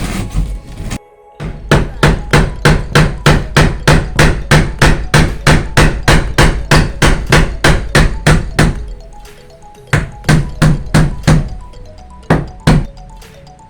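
Hammer blows in a fast steady run, about three a second, for several seconds, then a pause and a few more blows near the end, during roofing work. Background music plays throughout.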